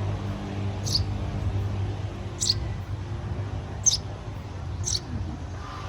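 Young birds giving short, high, squeaky peeps, four in about five seconds, over a steady low hum.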